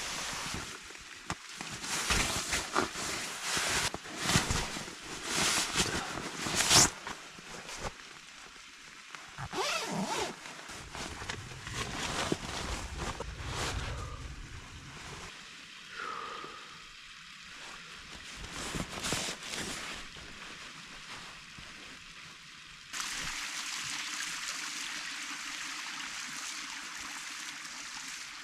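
Tent fabric and gear rustling and scraping in irregular bursts, the loudest a few seconds in, then a sudden change about 23 seconds in to a steady hiss.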